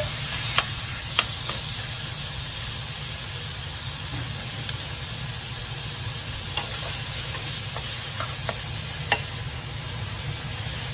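Chopped beef frying with onion, garlic and chili in a nonstick pan: a steady sizzle, with a few light knocks of a wooden spatula against the pan.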